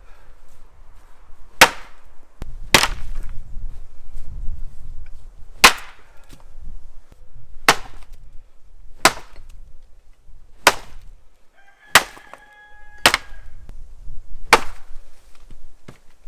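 Axe chopping wood: about nine sharp strokes, spaced one to two seconds apart.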